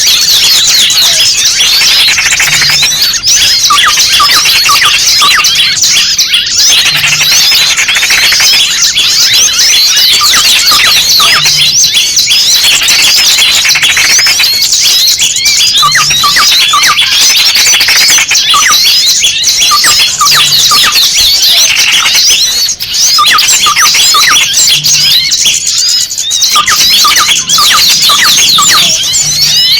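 Many small birds chirping and calling in alarm, a dense, unbroken tangle of rapid high-pitched notes. This is a bird-lure call of noisy small birds, one of them trapped, used to draw other small birds in.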